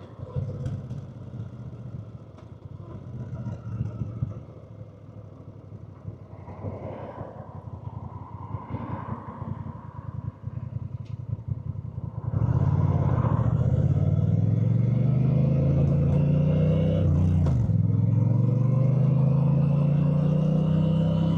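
Honda Rebel 1100 parallel-twin motorcycle engine running low and quiet, then about twelve seconds in it opens up loudly and pulls away, its pitch climbing steadily. There is a short dip for a gear change about five seconds later before it climbs again.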